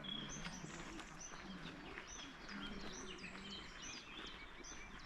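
A small songbird singing: a string of short, high notes repeated about twice a second, faint over a soft outdoor background.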